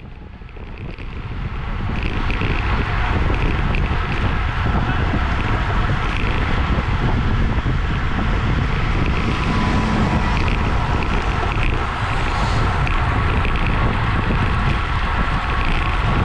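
Wind rushing over the microphone of a camera on a racing bicycle at race speed. It swells over the first two seconds as the pace picks up, then holds steady and loud.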